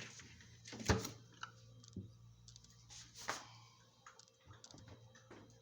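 Scattered light clicks and knocks, the loudest about a second in and just after three seconds, over a faint steady low hum.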